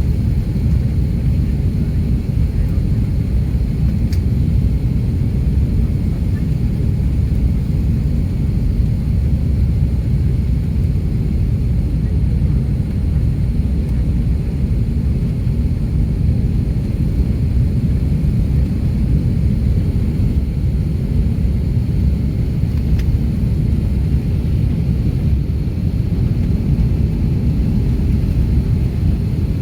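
Steady low rumble of an Airbus A330-300's engines and airflow, heard from inside the passenger cabin.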